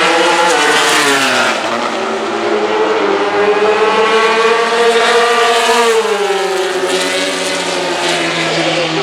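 MotoGP racing motorcycles at full throttle on a fast section, their engine notes climbing and then dropping sharply as bikes go past, about a second and a half in and again about six seconds in.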